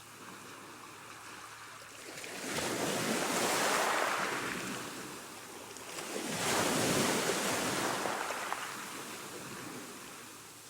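Ocean surf: two waves swell up and ebb away, about three seconds apart.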